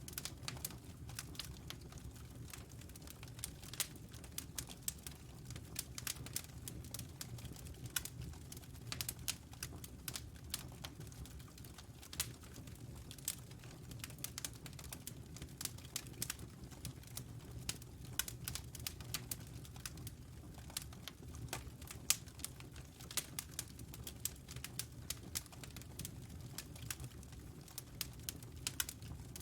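Wood fire burning in a fireplace: a steady low rumble of the flames with frequent sharp, irregular crackles and pops of the burning logs.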